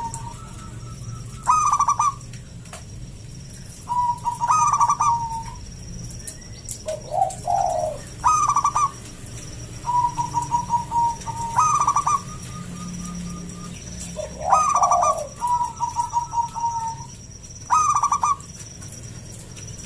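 Zebra doves (perkutut) cooing: quick stuttering phrases of notes come every two seconds or so, each phrase a fast cluster followed by a run of evenly spaced coos. A couple of lower, falling coo phrases come in between.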